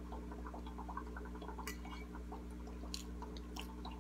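Close-up wet chewing of soft chocolate cake with frosting, mouth closed, with a few sharp clicks of a metal fork against the plate and teeth. A steady low hum runs underneath.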